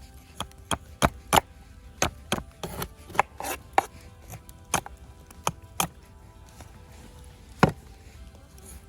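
A knife working a frozen muksun: a dozen or so sharp, irregular strokes and scrapes against the hard fish and board, with one loud stroke near the end.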